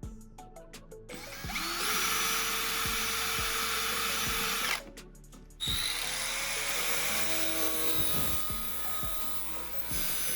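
Electric drill running in two bursts: a steady run that stops near the middle, then a second run that slowly fades, with background music underneath.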